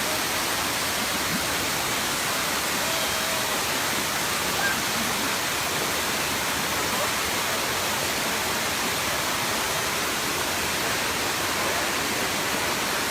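The seventh tier of Erawan Falls, water pouring down in a steady, even rush.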